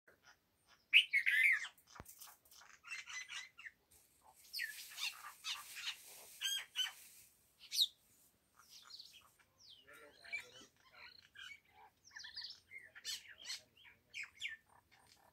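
Several birds chirping and calling in short, overlapping chirps, with the loudest burst of calls about a second in and a sharp click about two seconds in.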